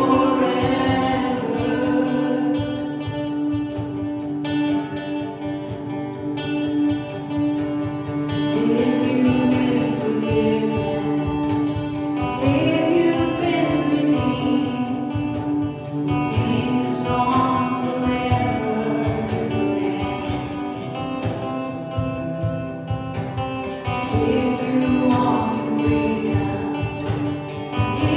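Gospel worship song: singing with guitar and band accompaniment at a steady beat.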